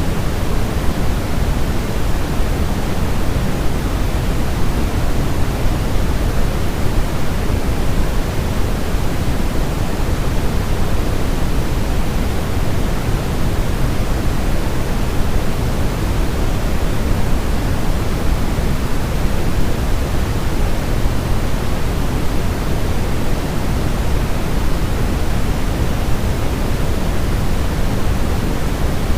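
Steady pink-style noise, a constant even hiss weighted towards the bass, played as a sleep sound for babies.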